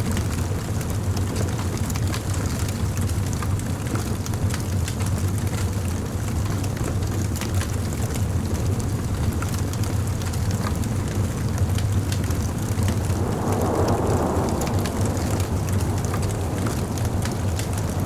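Wood bonfire burning: a steady low rumble of flame with scattered sharp crackles and pops throughout, and a brief louder rush of flame about thirteen seconds in.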